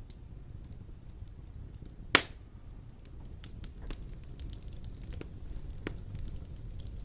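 Wood fire in a fireplace crackling, with scattered small clicks and one louder pop about two seconds in over a low steady rumble.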